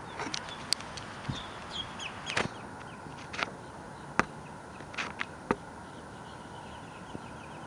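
Birds calling in short chirps over a steady outdoor hiss, with scattered sharp clicks.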